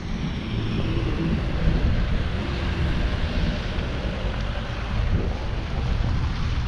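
Street traffic: a motor vehicle's engine hum under a steady rushing noise.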